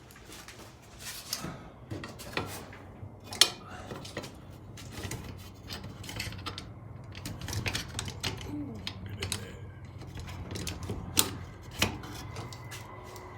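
Small metal parts and hardware clicking and clinking as they are handled, with a few sharper knocks, the loudest about three seconds in and again about eleven seconds in.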